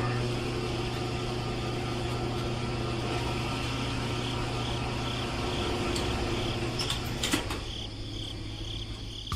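A small motor running with a steady low hum, with a faint high-pitched pulse about twice a second; it drops in level about three quarters of the way through.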